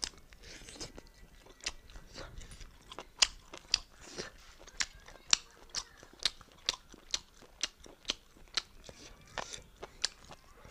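Close-miked chewing of a mouthful of rice and beef: wet mouth clicks and lip smacks, about two a second.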